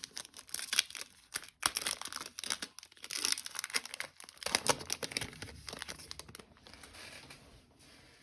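A trading card pack's foil wrapper torn open and crinkled by hand, a dense irregular crackle that thins out to faint rustling for the last couple of seconds.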